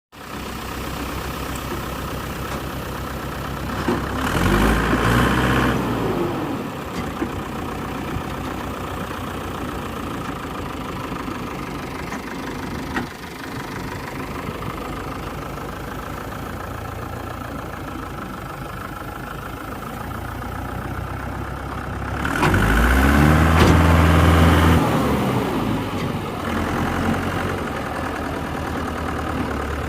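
Mahindra 475 tractor's diesel engine running steadily at idle, revved up twice for two or three seconds each, about four seconds in and again past twenty seconds.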